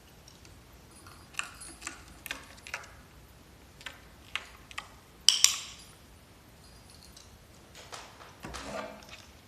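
A series of irregular sharp clicks and taps from small hard objects, loudest as a double knock about five seconds in, with a brief rattling scrape near the end.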